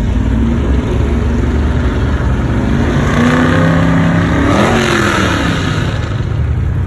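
A classic car drives past with its engine running. It grows louder, goes by about two-thirds of the way through, and its pitch drops as it passes, over a steady low engine sound from other cars.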